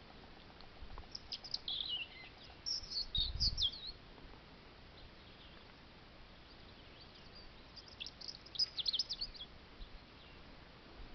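European robin singing: two phrases of high, thin, quickly changing notes, the first about a second in and the second about two-thirds of the way through. A soft low thump about three seconds in.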